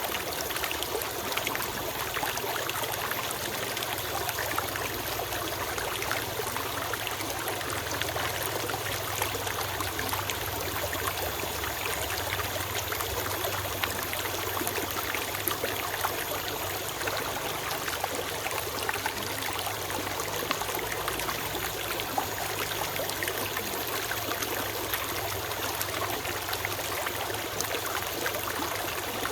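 A shallow stream running and trickling steadily over stones.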